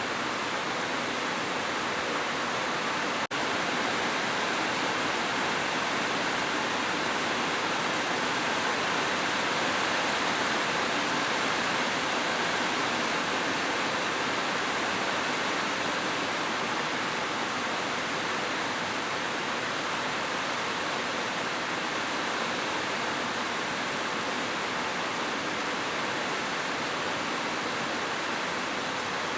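Heavy rain falling steadily, a dense even hiss with a momentary dip about three seconds in.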